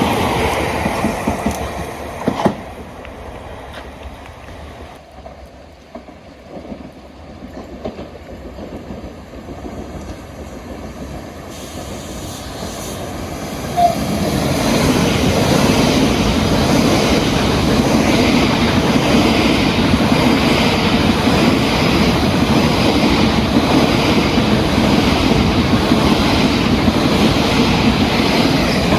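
Southeastern electric multiple-unit train: train noise dies away over the first few seconds, then a train is heard approaching, growing louder, and runs past loud and steady from about fourteen seconds in, with a sharp click just as it reaches full loudness.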